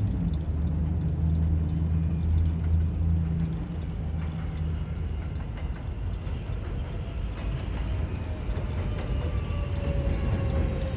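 R188 subway train on the 7 line running, a steady rumble with a low hum that fades out about halfway through and a faint whine that slowly falls in pitch near the end.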